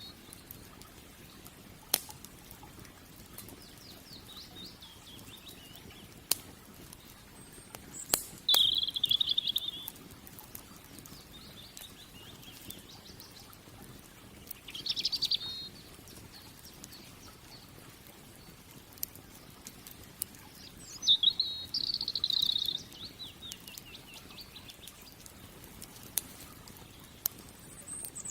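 Songbirds singing short warbling phrases every few seconds, over the occasional sharp crackle and pop of a burning wood fire.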